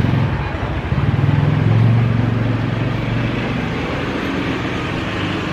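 Street traffic: a motor vehicle engine running close by, swelling about one to two seconds in, then a steady traffic rumble.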